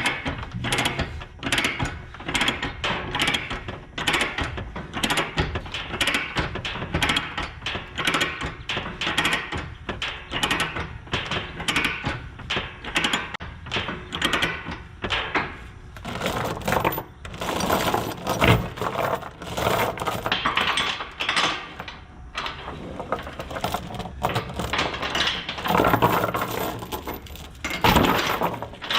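Metal clicking and clanking of tie-down chains and binders, a rapid run of clicks and knocks at a few a second, as the load is chained down.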